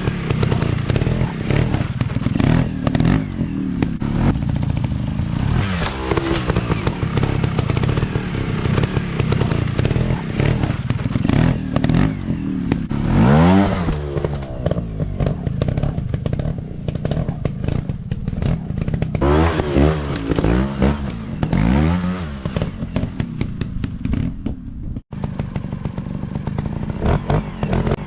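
Trail dirt bike engines running under load over rough ground, revving up and back down several times as the throttle is worked, with many short knocks and clattering.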